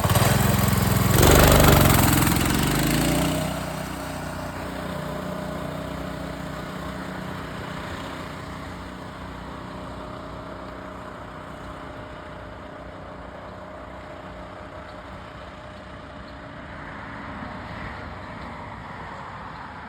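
Coleman CT200U-EX mini bike's small single-cylinder engine idling, then revving hard for about two seconds as the bike launches with its speed governor on, then fading steadily as the bike rides off into the distance.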